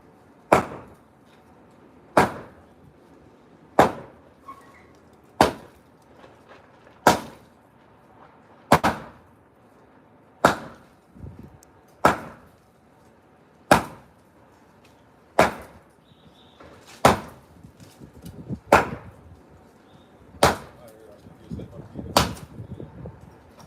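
Sledgehammer striking concrete in a steady rhythm, about one heavy blow every second and a half to two seconds, fourteen blows in all, breaking up the slab by hand.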